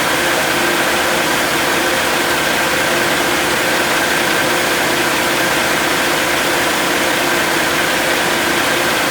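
2005 Cummins ISX inline-six diesel engine running steadily at idle: an unbroken hissing drone with a few constant whining tones over it.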